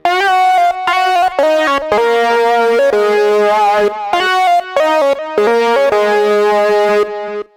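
Oberheim OB-6 analog polyphonic synthesizer playing a patch: a run of chords and notes that change every half-second to a second, with brief breaks between them, dying away about seven seconds in.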